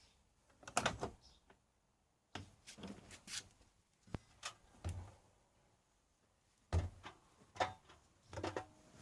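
Irregular knocks, clicks and clatters of a front-loading washing machine being handled before the wash starts, in separate bursts a second or two apart with quiet gaps between.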